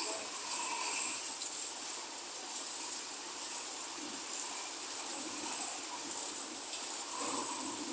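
Crickets trilling steadily in one unbroken high-pitched drone.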